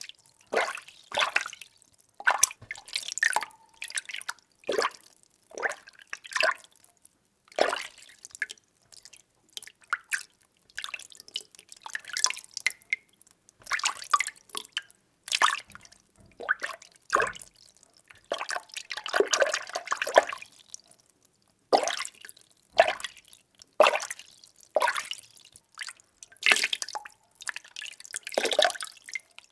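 Water being stirred in a container: short splashing swishes about once a second, with a longer, fuller swirl a little past the middle.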